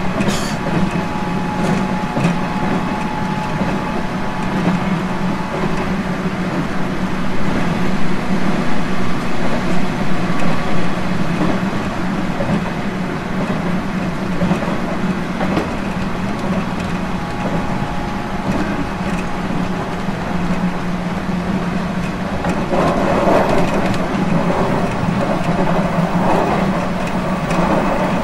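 Running sound of a JR East 719 series electric multiple unit in motion, heard from on board: steady motor hum and wheel-on-rail rumble. It grows louder and rougher for the last few seconds.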